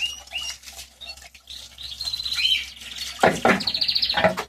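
Wild birds singing, with fast repeated trills and short chirps. A louder, harsher sound breaks in about three seconds in and lasts about a second.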